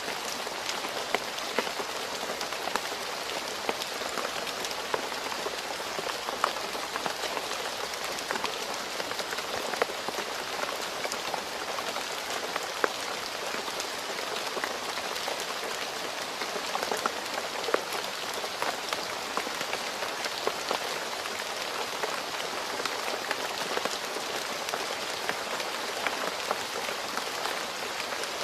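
Steady rain falling on a road, an even hiss with many individual drop hits standing out.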